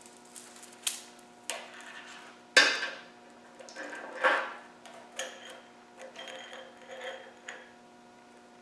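Hand tools and steel engine parts clinking and knocking on a workbench-stripped engine: a series of sharp metallic clinks, some ringing briefly, the loudest about two and a half seconds in.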